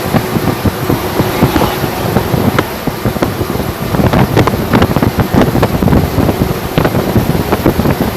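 Continuous road and wind noise from a moving vehicle, with wind buffeting the microphone and many short knocks or rattles throughout.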